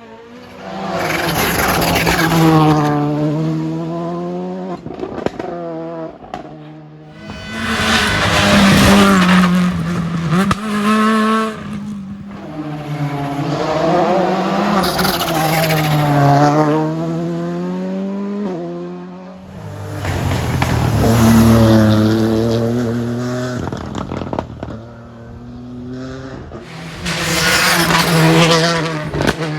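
Rally cars at full speed on a stage, engines revving hard, the pitch climbing and dropping repeatedly as they shift gears. The sound swells and fades in about five loud surges.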